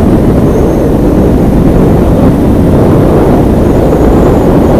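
Motorcycle under way: a loud, steady rumble of engine and wind rush.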